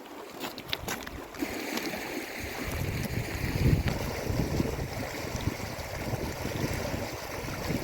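Wind buffeting the microphone in gusts over the steady rush of flowing river water, with a few sharp clicks in the first second or so.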